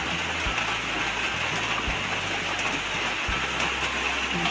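Steady hiss of heavy rain mixed with an egg sizzling in hot oil in a wok, with a few light knocks of a spatula stirring.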